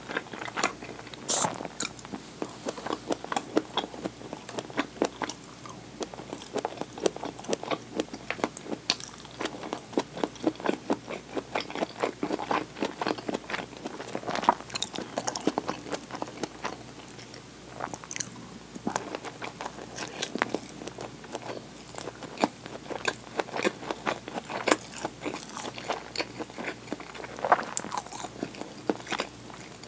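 A person chewing and biting food: many short sharp crunching clicks in quick succession with no pauses.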